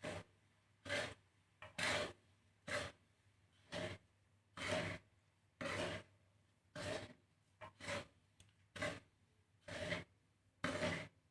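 Mixed bird seed (white and red millet, foxtail millet, black glutinous rice) being stirred and scraped around a pan while it dry-roasts, in short rasping strokes about once a second.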